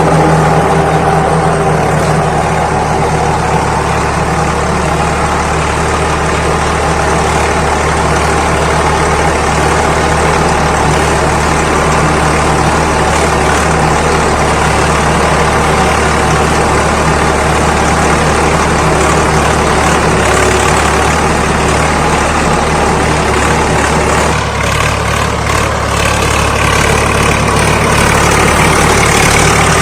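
Swaraj 855 FE tractor's three-cylinder diesel engine running steadily while working a rotavator, with a brief dip in the sound about three-quarters of the way through.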